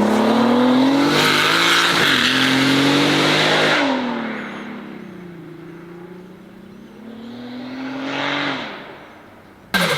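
Modified Volkswagen car accelerating hard, engine pitch climbing with one quick gear change about two seconds in, then dropping and fading as it drives away. A fainter rising rev follows near the end, then an abrupt cut to louder sound.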